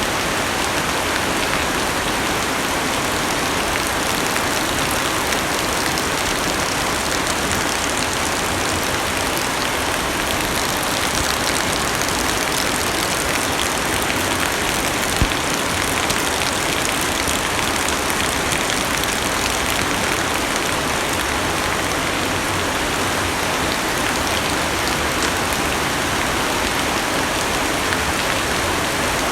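Heavy rain pattering steadily on a car's roof and windows, heard from inside the cabin, with one sharper drop strike about halfway through.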